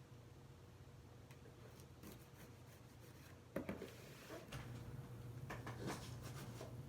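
Faint scraping and clicking of a cardboard box being opened by hand, with a few sharper clicks about halfway through and again near the end, over a steady low hum.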